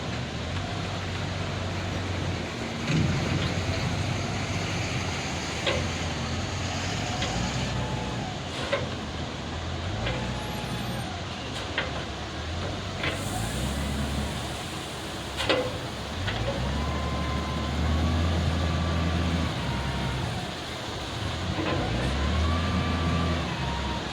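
L&T 9020 loader's diesel engine working, revving up and dropping back in repeated surges, with a whine that rises and falls with each surge. Several sharp knocks are heard over it, the loudest about two-thirds of the way through.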